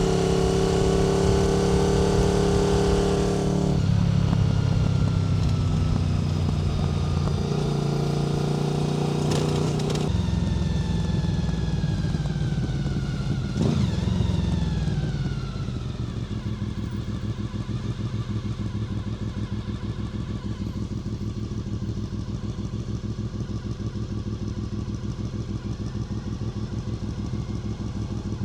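Honda VFR800 FI's 90-degree V4 engine through a Black Widow aftermarket exhaust, heard from the bike. The engine note steps between gears, falls away as the bike slows about halfway through, then settles into an even, pulsing idle for the last twelve seconds or so.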